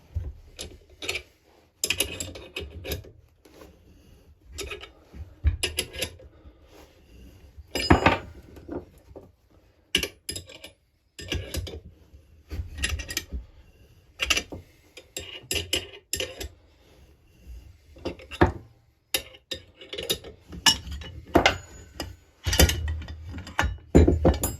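Irregular metallic clinks, knocks and scrapes as the two halves of a chainsaw crankcase are worked apart by hand, with a few heavier knocks among them.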